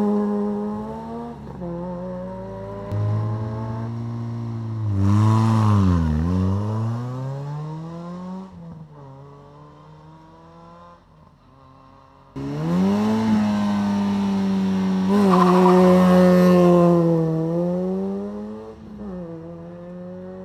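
Rally car engines revving hard at a rally start. The first engine holds high revs, dips and climbs again about six seconds in, then fades away. About twelve seconds in, another car's engine cuts in suddenly at high steady revs and later eases off.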